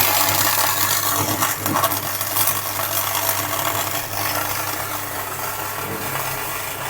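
Electric arc welding: a dense, steady crackling and sizzling of the arc over a steady low hum of the welding machine.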